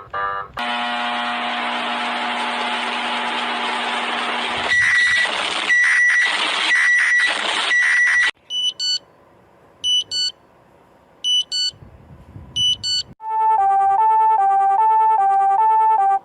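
A run of synthesized emergency-alert alarm tones, one pattern after another. First comes a harsh buzzing tone over hiss, then beeps about once a second. Four spaced double beeps follow, and finally a two-pitch warbling alarm that cuts off suddenly.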